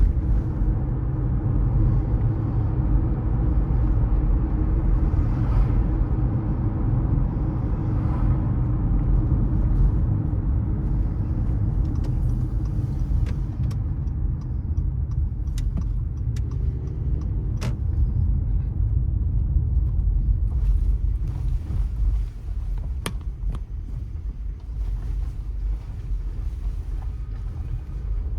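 Car driving on city streets: a steady low rumble of road and engine noise. A few sharp clicks cut through it in the second half.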